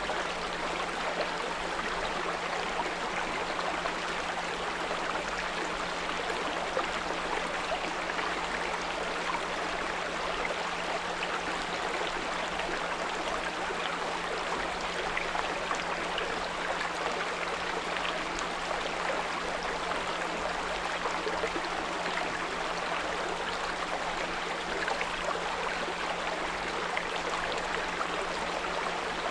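A small brook running steadily, a dense even rush of water, with a steady low 174 Hz pure tone held underneath it.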